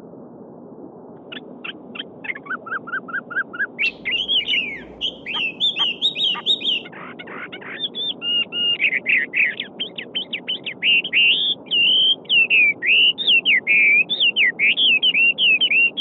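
A songbird singing a long, rapid song of varied trills and quick whistled notes, starting about a second in, over the steady rush of a babbling stream.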